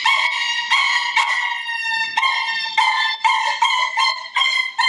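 A man imitating a wounded dog with his voice: a run of high, whining yelps, about two a second, each a short held note.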